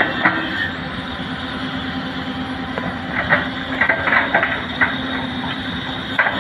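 Heavy diesel machinery running steadily, with a low hum and scattered metallic clanks and knocks, several in quick succession partway through.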